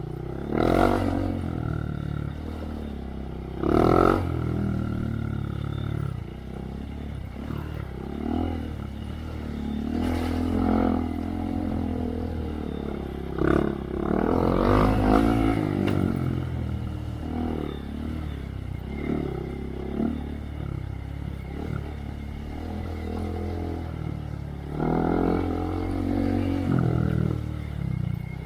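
2023 Honda Monkey's 124 cc single-cylinder engine running through a Yoshimura RS3 exhaust while riding a trail, the revs rising and falling over and over with throttle surges.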